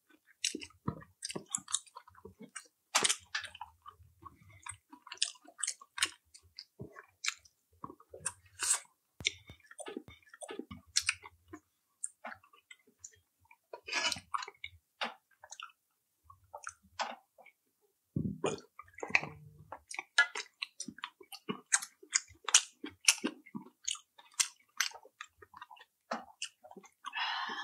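Close-up chewing and wet mouth sounds of people eating chicken sisig and chop suey with rice: irregular smacks and small crunchy clicks.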